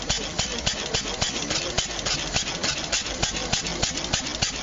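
Old steam engine running steadily, a rapid even knocking of about five beats a second.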